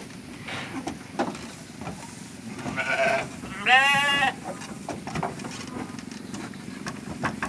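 A goat bleating twice, a shorter call and then a longer, wavering one about a second later, over steady wind noise.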